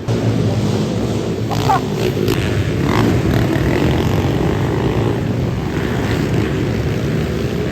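Small four-stroke pit bike engines running and revving together as the bikes ride the dirt track.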